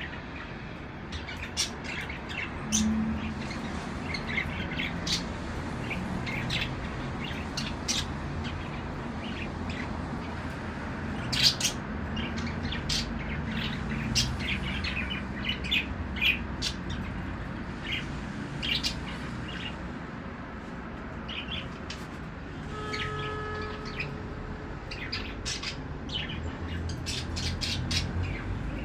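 Budgerigars chirping and chattering in many short, sharp calls scattered throughout, over a steady low hum.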